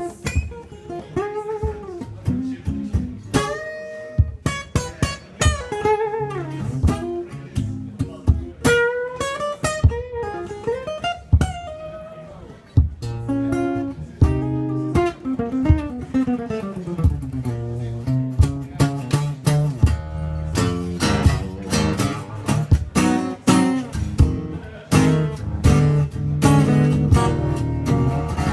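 Acoustic guitar playing an instrumental passage of a song, plucked and strummed. A gliding melody line runs over it through the first half.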